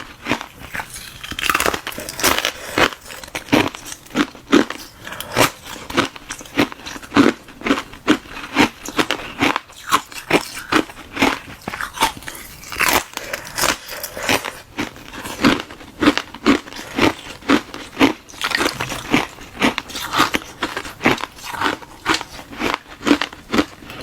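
A person biting and chewing ice, close to the microphone: a hollow balloon-ice shell packed with frozen milk tea. The crunches come in a steady run of about two a second.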